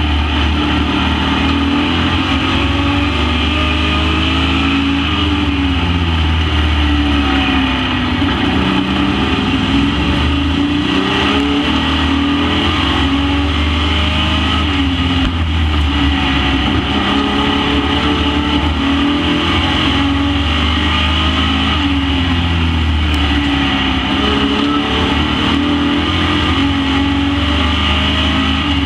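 Super Pro Truck race engines running laps on a short oval, several at once. Their pitch rises and falls over and over every few seconds as they accelerate out of the turns and lift for the next one.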